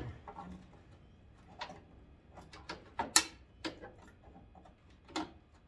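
Irregular sharp plastic clicks and knocks as a stuck headlight wiring connector is pried and tugged without coming loose. The loudest click is about three seconds in.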